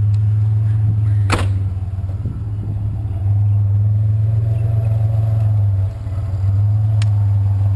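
Truck driving: a steady low engine and road rumble that grows louder about three seconds in, with a sharp click about a second and a half in and a fainter one near the end.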